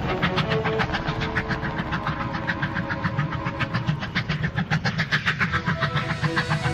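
Cartoon vehicle sound effect: a steady rhythmic chugging of about five to six beats a second, getting a little stronger near the end.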